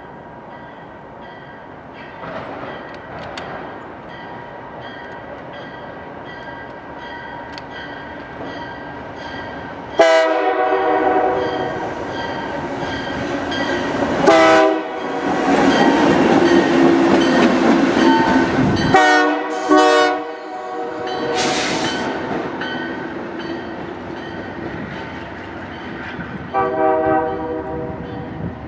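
Locomotive air horn sounding a series of blasts as a train comes through: a long blast, a second long one, two short ones, then another long one near the end. The train's rushing, rattling run past is loudest in the middle.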